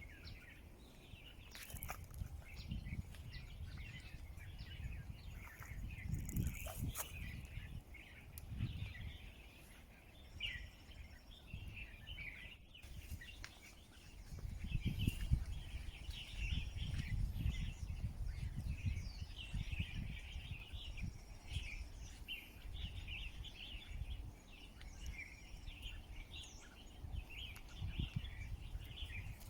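Small birds chirping in quick, repeated calls, busier in the second half, over an uneven low rumbling noise.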